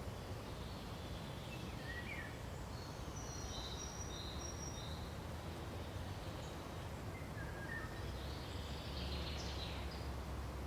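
Forest ambience: songbirds giving scattered short, high chirps and trills in two loose clusters, over a steady low background rumble.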